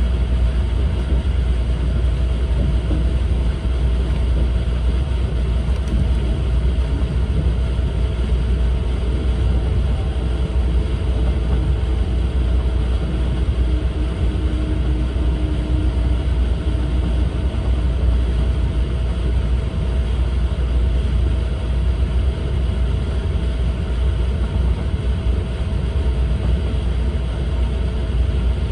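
Steady low rumble inside the passenger cabin of an E4 series Max double-decker Shinkansen, with a faint steady hum above it.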